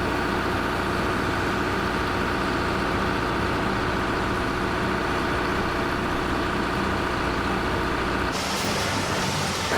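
Heavy diesel machinery engine running steadily. About eight seconds in, it cuts abruptly to a rougher, rushing noise.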